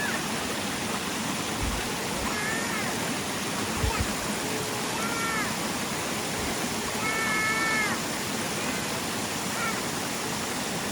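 Mountain stream water rushing steadily over rocks, with short high arching calls several times on top, the longest about a second long near the middle.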